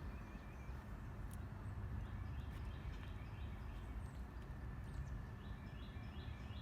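Outdoor ambience: a steady low background rumble, with a small bird chirping repeatedly from about two seconds in.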